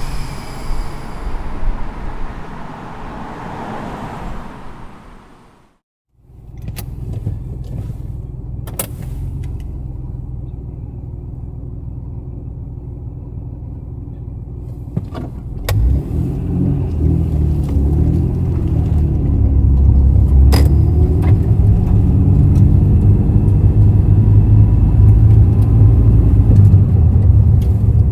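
A different sound fades out to a brief silence. Then the Honda NSX's V6 with an aftermarket titanium exhaust runs with a steady low rumble. About halfway through there is a thump, and the engine note grows louder and wavers in pitch as the car is driven under load.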